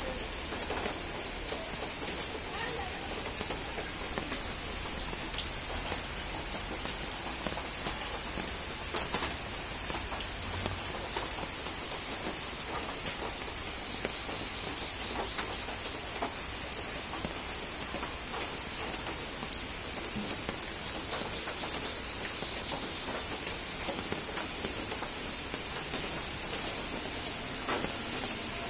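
Steady rain: an even hiss with many scattered sharp ticks of drops landing.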